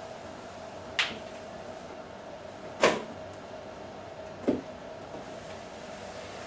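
Three separate knocks, about a second and a half apart, the middle one loudest, over a steady faint hum.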